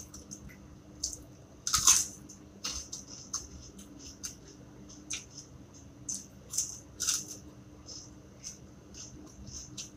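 Close-up eating sounds: raw cabbage leaves torn and crunched while chewing, an irregular run of crisp crackles and mouth smacks, the loudest about two seconds in.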